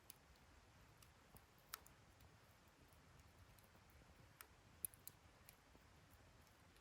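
Faint crackling of a wood fire in a fire stand: a few scattered sharp pops and snaps, the loudest near the start and just before the fifth second, over a low hush.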